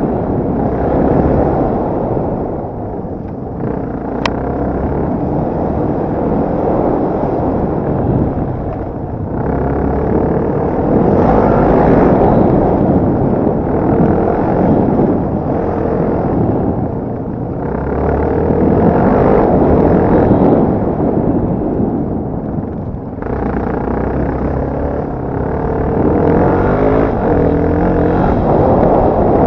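Dirt bike engine revving up and backing off again and again as it is ridden, over heavy wind noise on the microphone. A sharp click about four seconds in.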